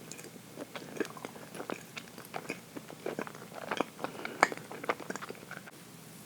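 A person chewing a dense chocolate cake (fondant au chocolat) close to the microphone: a quick run of small wet mouth clicks and smacks, loudest about four seconds in.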